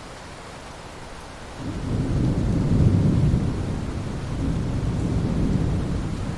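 Steady hiss of rain falling on ocean water. About a second and a half in, a deep rumble swells up, peaks, then slowly eases off.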